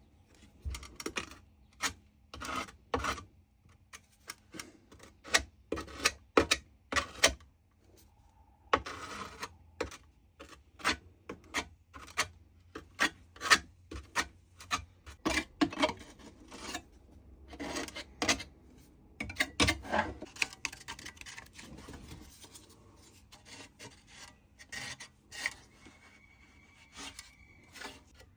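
Repeated scraping strokes of a spreader working JB Weld epoxy putty over the back of a pedal car grille, in irregular runs of short strokes with brief pauses.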